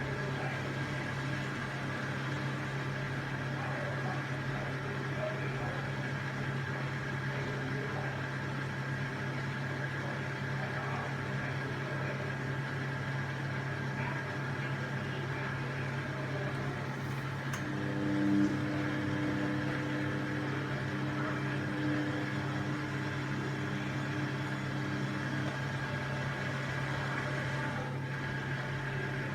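Washing machine running with a steady motor hum. Just past halfway, a few higher tones join in for several seconds, then drop out.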